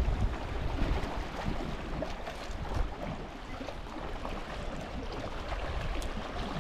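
Lakeside wind and water noise: wind rumbling on the microphone, heaviest in the first second and easing after, over a steady wash of water.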